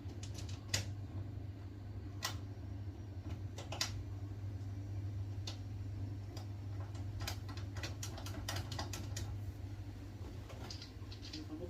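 Irregular light clicks and taps from parts being handled and fitted while the boiler's circuit board and its connectors are worked on, over a steady low hum.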